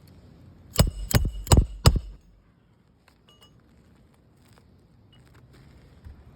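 Four or five sharp metallic clinks with a ringing tone in quick succession about a second in, then a few faint light ticks.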